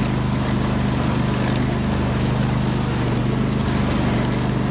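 Craftsman GT5000 lawn tractor engine running at a steady speed while the tractor is driven, a constant low hum with no change in pitch.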